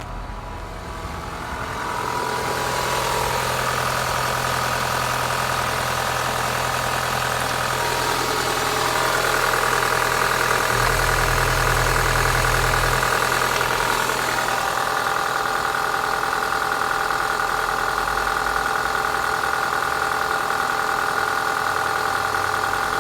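Renault F4P 1.8-litre 16-valve inline-four petrol engine running steadily at idle, its tone shifting a few times.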